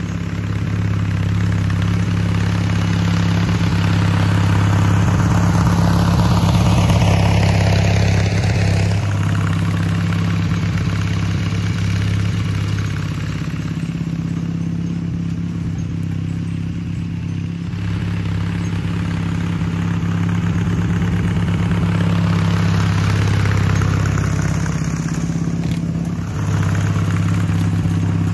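Garden tractor engine running steadily while towing a dethatcher over wood chips, the level swelling and easing as it works. Several seconds in, a higher whine glides down in pitch.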